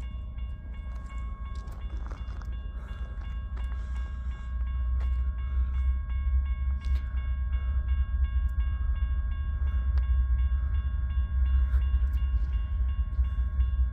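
Train rumbling past, its low rumble growing louder about a third of the way in, with a faint steady whine and occasional sharp clicks over it.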